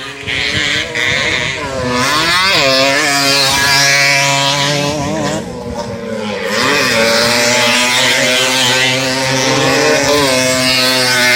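Small 50cc two-stroke motocross bike engines racing, revving up and down in repeated rising and falling pitch sweeps as they accelerate and shift.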